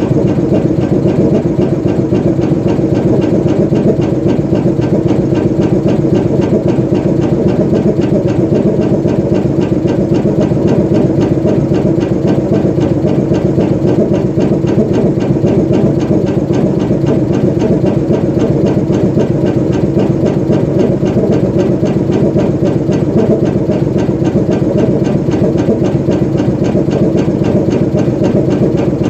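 GE U20C diesel-electric locomotive's V12 FDL-12 diesel engine idling steadily while the locomotive stands parked, an even, rapid beat that does not change.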